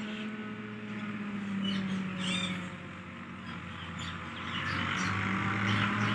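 Pet parrot giving several short chirps and squeaks over a steady low hum.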